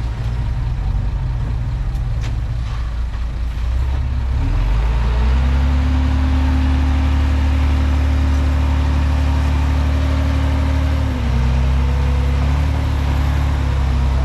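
Bulldozer diesel engine running, then revving up about four seconds in and holding at high revs as it pushes under load, with a brief dip in revs near the end.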